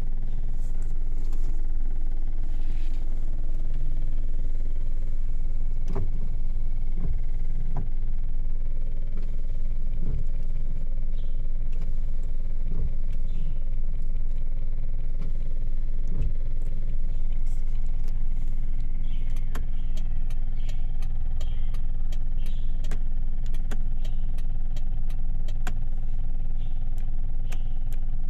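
Toyota Kijang LGX's 1.8-litre four-cylinder petrol engine idling steadily, heard from inside the cabin. A run of evenly spaced clicks starts about two-thirds of the way in.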